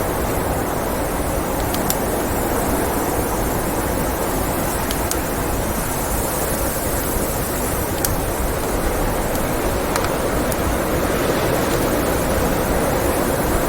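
Steady rushing blizzard wind, with occasional sharp pops and crackles from a wood fire burning in a fireplace.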